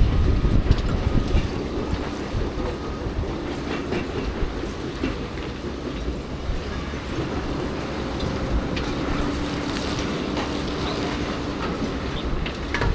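A heavy engine running steadily with scattered clanks and knocks over a low rumble.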